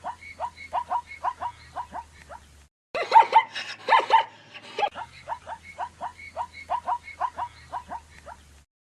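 An animal giving rapid, short, yelping calls, about four a second. They break off briefly between two and three seconds in, start again louder, and stop just before the end.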